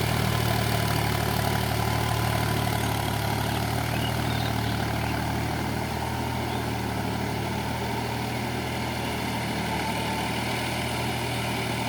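Massey Ferguson Dynatrack 254DI tractor's diesel engine running steadily at idle, with an even hum and no revving.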